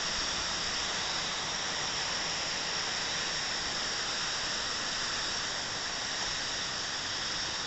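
Waterfall: a steady rush of falling water, even and unbroken, with most of its sound in the hiss.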